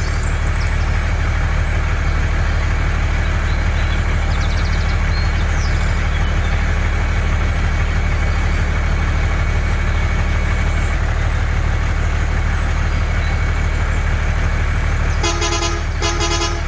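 A vehicle motor running steadily with a low hum. Near the end a horn sounds a string of short toots.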